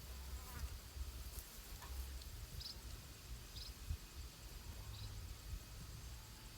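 Faint outdoor field ambience: a steady low rumble with three short, high chirps about a second apart, typical of insects.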